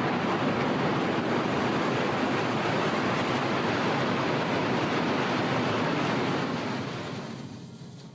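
A steady rushing noise with no distinct events, fading out over the last second or so.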